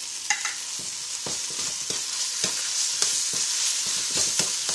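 Red curry paste frying and sizzling in hot oil with garlic and shallots in a nonstick pan. A spoon stirs and scrapes it about, knocking lightly against the pan several times a second.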